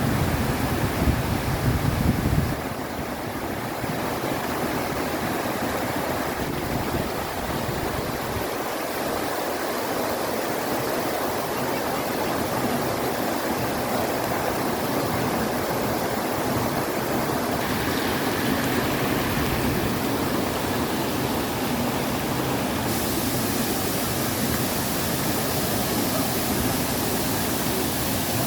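Steady rushing of a mountain stream or waterfall. For the first two seconds or so, a low rumble of wind on the microphone is mixed in.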